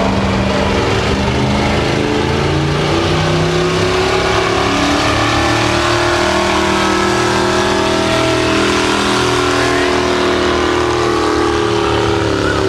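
A pulling truck's engine running hard at high revs under load while it drags the pulling sled. Its pitch climbs slowly over the first few seconds, then holds, and begins to drop near the end.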